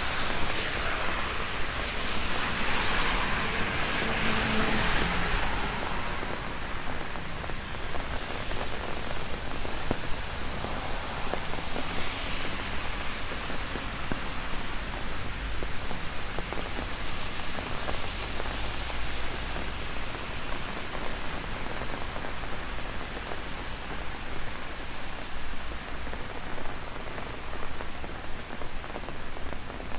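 Heavy rain falling steadily, drumming on an umbrella overhead, with a louder swell of rushing hiss in the first few seconds.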